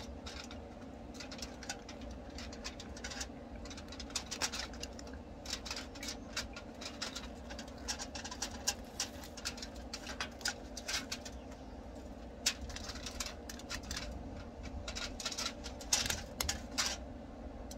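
Close chewing and mouth sounds: irregular wet clicks and smacks, several in quick runs, as a chewy piece of smoked rattlesnake meat is chewed, over a low steady hum.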